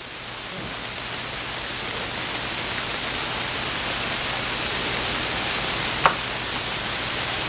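A steady hiss of background noise that slowly grows louder, with one faint click about six seconds in.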